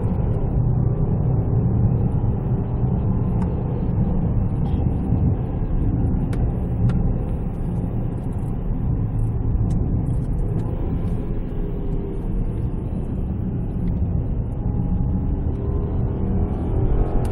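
A 2014 Range Rover Sport's supercharged 5.0-litre V8 pulls along the road with a steady low engine and road rumble. Near the end the engine note rises as it accelerates.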